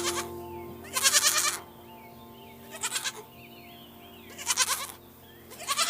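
Young goat (kid) bleating: about four short, quavering bleats, roughly one every second and a half, over soft background music.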